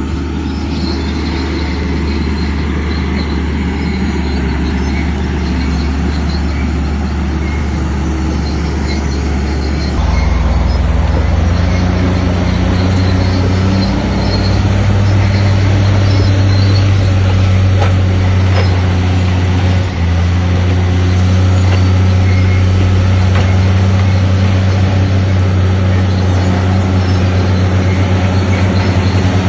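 Shantui crawler bulldozer's diesel engine running hard under load. It steps up in pitch and loudness about a third of the way in and dips briefly about two-thirds through.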